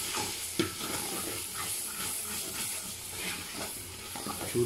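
Peas and masala sizzling in hot oil in an aluminium pot as a metal ladle stirs them: a steady frying hiss with scattered scrapes and clicks of the ladle against the pot, and one sharper knock about half a second in.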